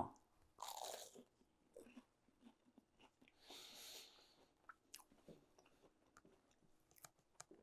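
A person biting into and chewing a freshly fried churro coated in cinnamon sugar: faint crisp crunches and small mouth clicks, the most audible crunch shortly after the bite.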